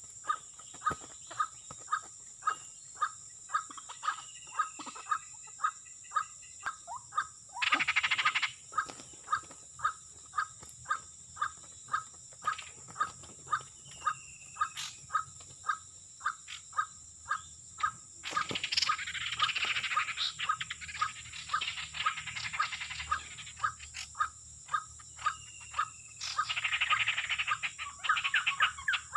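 White-breasted waterhens calling: a monotonous note repeated about every two-thirds of a second, broken three times by loud, harsh chattering bursts, the longest lasting about five seconds.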